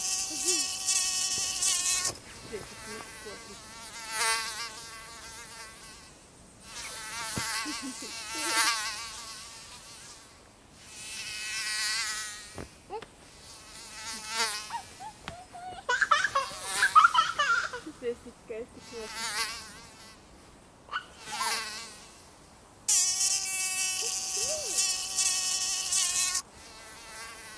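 Mosquito whine as it flies close by, over and over: each pass swells up and fades away, with short quiet gaps in between. The longest, loudest passes are at the very start and near the end. About two-thirds of the way through, a louder, jumbled burst of sound breaks in.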